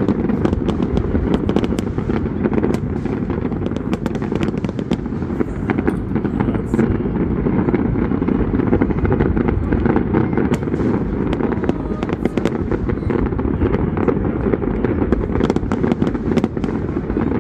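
Aerial fireworks display: a rapid, continual run of bangs and crackles over a dense low rumble.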